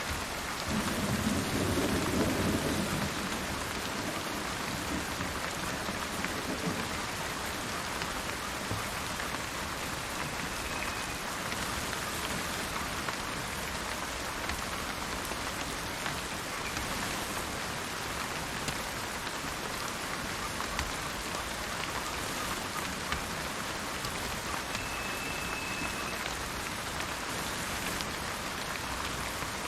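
Steady rain falling, with a low rumble of thunder in the first few seconds. Two brief high whistled notes, a bird calling, come through the rain about a third of the way in and again near the end.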